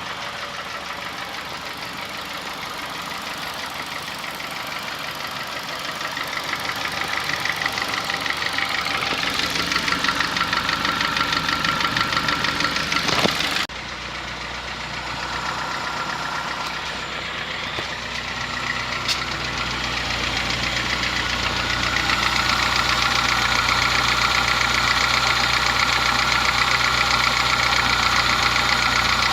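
Honda Fit petrol engine running with a diesel-like clatter, like an old sewing machine, which the owner holds cannot be normal for a gasoline engine. The loudness falls suddenly about halfway through and then builds back up.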